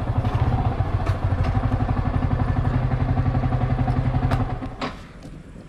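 Motorcycle engine running at low speed as the bike rolls in and stops, then cutting out about four and a half seconds in, followed by a single sharp click.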